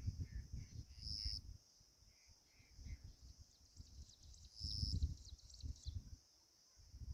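Outdoor insect chorus: a steady high drone that swells louder about a second in and again near five seconds, with a few soft chirps in the first three seconds and bursts of low rumble.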